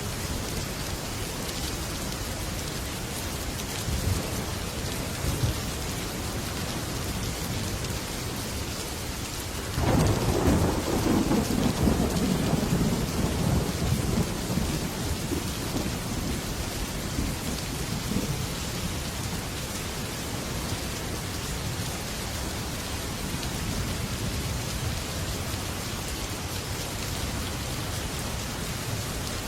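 Heavy rain falling steadily on a metal roof. A sudden loud thunderclap comes about ten seconds in and rumbles on for several seconds, with fainter rumbles of thunder before it.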